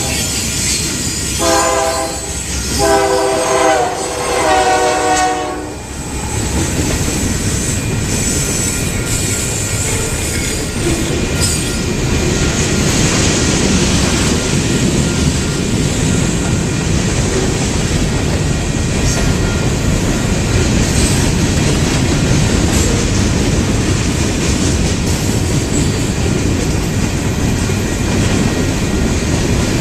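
Diesel freight locomotive's air horn sounding several blasts in the first six seconds, the last one the longest. Then the train rolls past steadily, wheels running on the rails.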